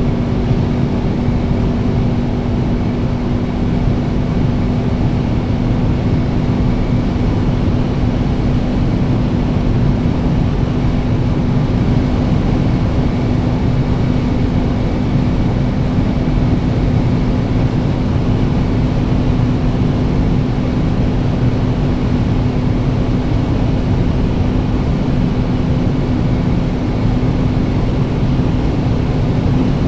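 Volkswagen Beetle 2.0 TSI's turbocharged four-cylinder engine holding high revs at about 220 km/h, close to flat out, in fifth gear. It is a loud, steady drone with one unchanging tone, heard from inside the cabin and blended with heavy wind and road noise as the speed creeps slowly toward the car's top speed.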